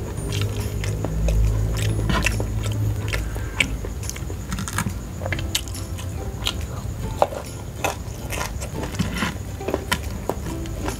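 Close-miked chewing and biting of crispy fried chicken and raw vegetables: frequent sharp crunches and mouth clicks over steady chewing, with a low rumble under the first few seconds.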